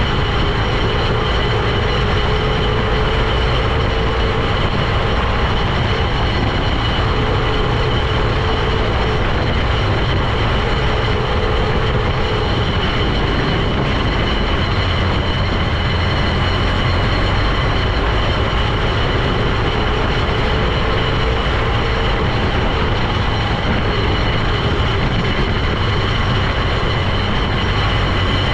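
A heavy vehicle running steadily on the road: a loud continuous low rumble of engine and drivetrain with a wavering mid whine and a steady high whine.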